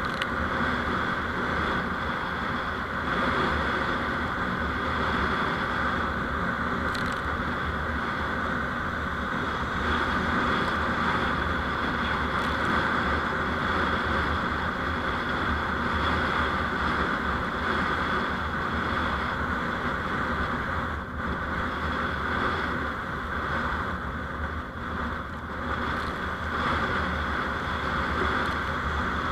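Steady running noise of a vehicle on the road, engine and tyre or wind noise together, as picked up by a dashcam while driving. It holds an even level throughout with no sharp events, dipping only slightly a couple of times.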